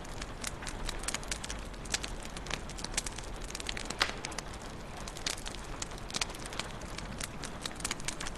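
Wood fire crackling in a fireplace: irregular sharp pops and snaps over a soft steady hiss, with the loudest pop about four seconds in.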